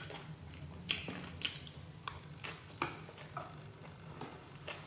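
A person chewing food with the mouth closed, close to the microphone: soft wet smacks and clicks about every half second to second, over a low steady hum.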